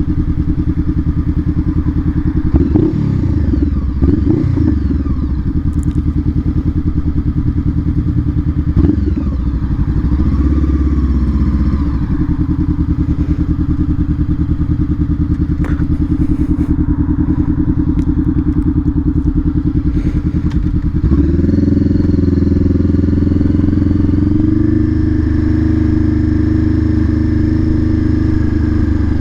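Honda CBR500R parallel-twin motorcycle engine running at low revs in slow traffic, with a few short rises and falls in pitch in the first ten seconds. About two thirds of the way in, the engine note steps up and holds steady as the bike pulls away.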